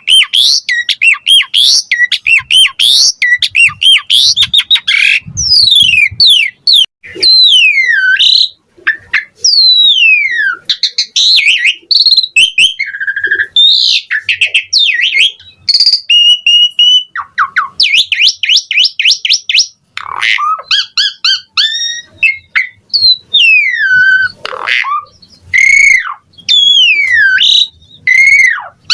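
Asian pied starling (jalak suren) singing loudly and without pause: a varied song of fast chattering notes, falling whistles and rapid trills.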